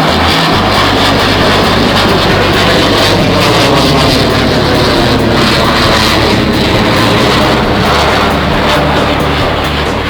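Military jet aircraft flying past overhead, a loud steady jet roar.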